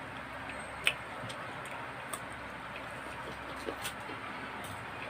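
A person chewing a slice of ripe Indian mango: a few sharp, irregular mouth clicks and smacks, the loudest about a second in, over a steady background hiss.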